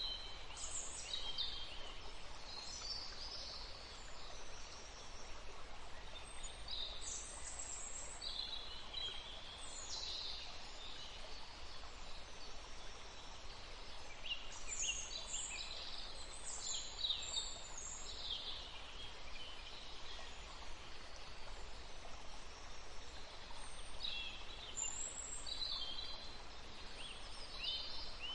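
Forest birds chirping and trilling in short high-pitched bursts, coming in several clusters with pauses between, over a steady background hiss.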